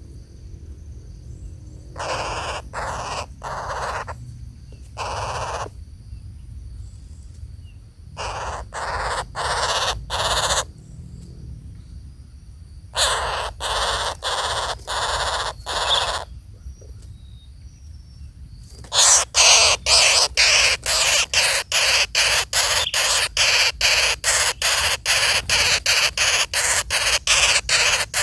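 A bird giving harsh, hoarse rasping calls, at first in groups of about four with pauses between, then in a fast even run of two or three rasps a second.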